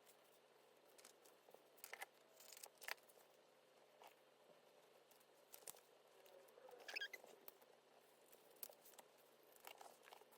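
Faint scattered taps and rustles of stickers being handled and pressed onto a binder's pages, with a brief squeaky rustle about seven seconds in.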